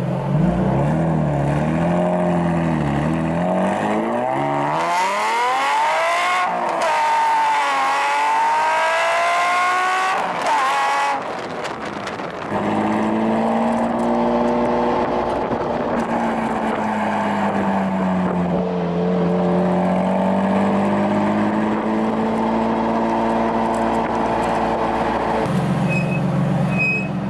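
Nissan VQ V6 sports car running through an aftermarket exhaust. It revs and accelerates with the pitch sweeping up and down, then, after a break about twelve seconds in, holds a long steady drone whose pitch sags slightly, dropping to a lower tone near the end.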